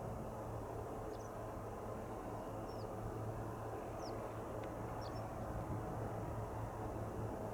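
Steady low drone of a Beech Musketeer's piston engine running at a distance, with a handful of short, high bird chirps over it.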